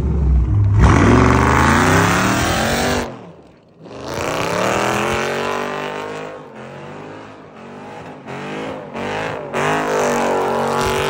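Widebody Dodge Charger V8 revving hard, its pitch climbing; after a brief break the engine runs at high revs, rising and falling as the car does donuts with its rear tyres spinning and smoking.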